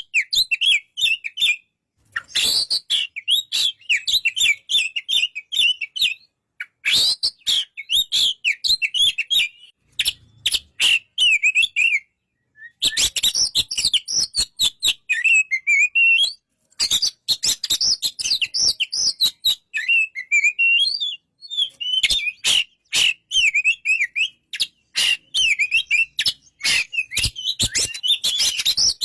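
Oriental magpie-robin (kacer) singing: fast, varied warbling phrases in bouts of a few seconds with short pauses between them, mixed with many sharp clicking notes.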